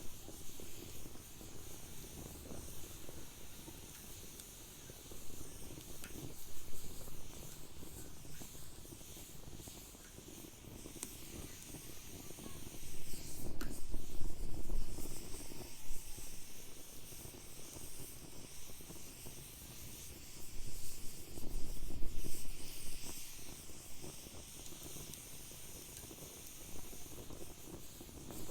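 Wood fire crackling and hissing in a fire pit, with a steady scatter of small snaps and pops. It swells louder twice, about halfway through and again about three quarters through.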